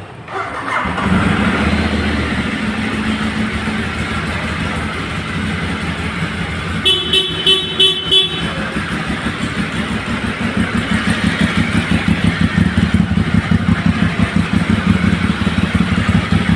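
Ducati 848 Evo's 849 cc L-twin engine starting from cold, catching within the first second and settling into a fast, lumpy idle with a strong even pulse. A horn sounds several short toots about seven seconds in.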